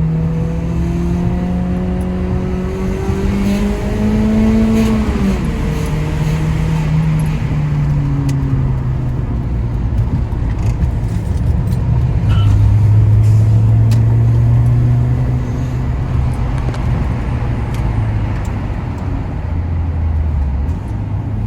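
BMW E36 318's four-cylinder engine pulling in gear, its note rising for about five seconds, dropping sharply at a gear change, then settling lower and steady as the car cruises, with road noise underneath.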